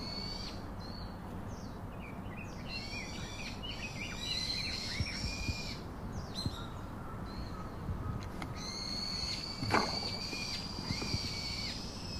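Several songbirds chirping and warbling over steady outdoor background noise, with one quick falling sound about ten seconds in.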